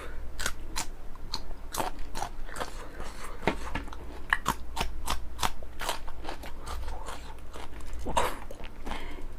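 Raw green chillies being bitten and chewed close to the microphone: a continuous run of crisp, wet crunches, roughly two to three a second.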